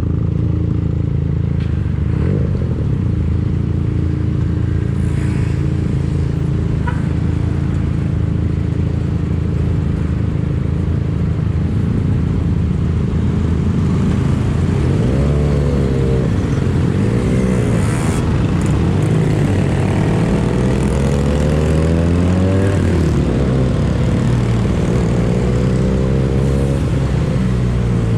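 Benelli TNT 249S parallel-twin engine running through a Tridente F22 carbon aftermarket exhaust. It holds a steady note for roughly the first half, then rises and falls in pitch again and again as the throttle is opened and closed.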